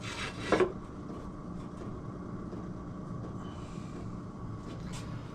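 A short metal clunk about half a second in as the cover is set onto the motorcycle engine case, then a steady low background hum with a few faint taps and one light click near the end.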